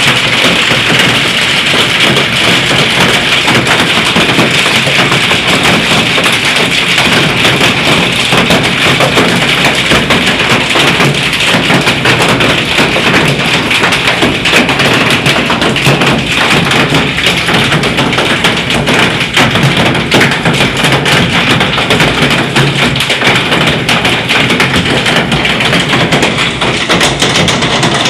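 Hailstones hitting the ground and other hard surfaces in a loud, steady, dense clatter of taps and thuds.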